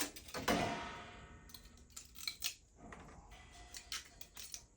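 A sharp knock about half a second in that rings briefly and fades, followed by scattered light clicks and taps of hard objects being handled.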